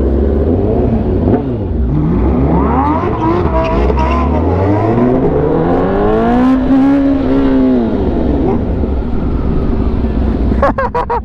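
High-performance engines accelerating in traffic over a steady low rumble. The engine pitch climbs over several seconds, holds near its top, then falls away, with a few short sharp bursts near the end.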